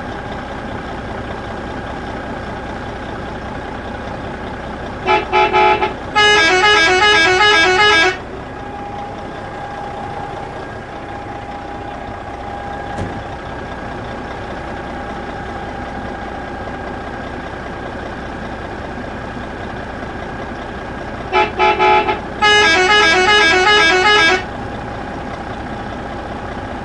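A vehicle horn sounding a pulsing, tune-like call twice: two short toots, then about two seconds of rapid pulsing notes. The first call comes about five seconds in and the second about twenty-one seconds in, over a steady hum.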